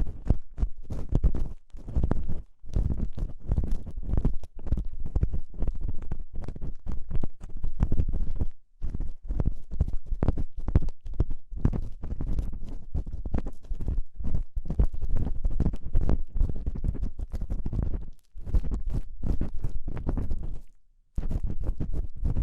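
ASMR ear-cleaning sounds on a binaural microphone's ear: a tool scraping and rubbing right at the ear canal in quick, close, crackly strokes with a heavy low rumble, pausing briefly a few times.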